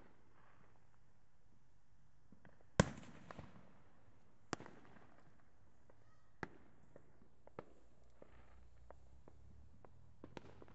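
Fireworks going off in the distance: scattered bangs and pops at irregular intervals. The loudest bang comes about three seconds in and is followed by a long rumbling echo, then more single sharp bangs every second or two.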